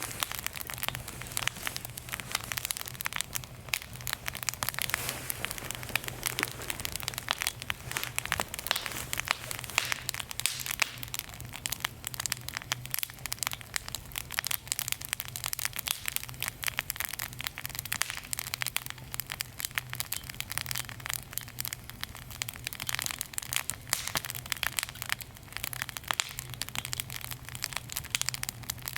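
Wood fire crackling and popping in a small fire pit, with a steady low hum underneath.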